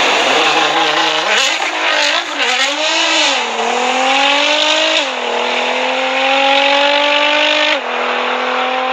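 Car engine accelerating hard, its note wavering at first, then climbing steadily and dropping sharply at two gear changes, about halfway and near the end.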